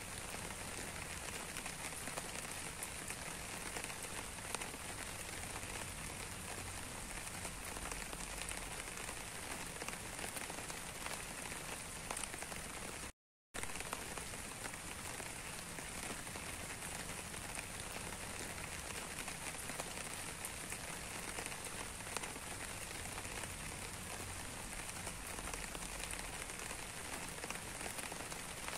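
Steady rain falling, with individual drops ticking through it. The sound cuts out for a split second about halfway through.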